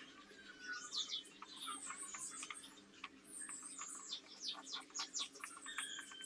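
Birds chirping: a busy run of short, quick, falling chirps.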